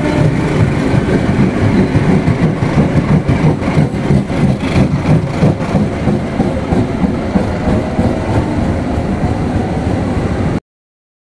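A train running past on steel rails, a loud steady rumble with wheels clattering over the rail joints, busiest in the middle. The sound cuts off suddenly near the end.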